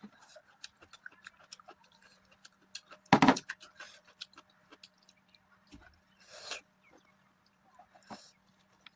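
Close-up mukbang eating sounds: a person chewing a mouthful of mutton curry and rice, with many small wet mouth clicks and smacks. One much louder noisy sound comes about three seconds in, and a short hissing slurp just past the middle. A faint steady hum lies underneath.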